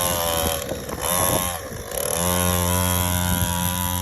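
Small 50cc dirt bike engine revving up and down, then holding steady revs from about halfway through.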